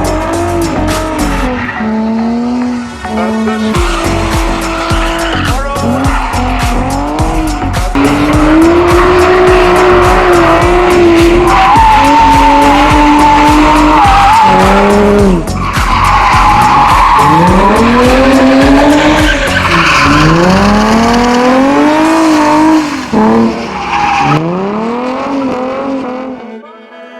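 Infiniti G35 Coupe's 3.5-litre V6 through a 3-inch muffler-delete exhaust, drifting with the tyres squealing. The engine is held at high revs through the middle, then revs up and down in a series of rising sweeps before cutting out near the end, with music playing underneath.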